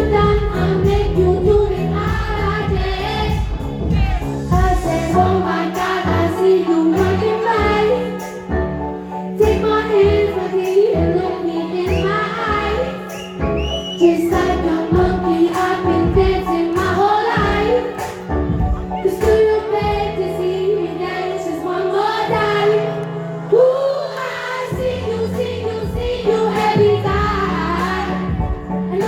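Live pop song: a female lead vocal sung over a steady beat and bass line.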